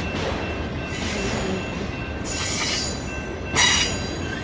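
Union Pacific mixed freight train cars rolling past, a steady rumble with faint wheel squeal. Two brief bursts of high screeching noise come about halfway through and near the end, the second one the loudest.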